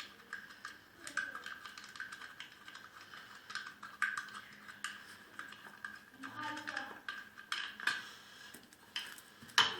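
Irregular metal clicks and clinks of a hand tool working the screws out of a clover mower engine's fan cover, with a sharper clink near the end.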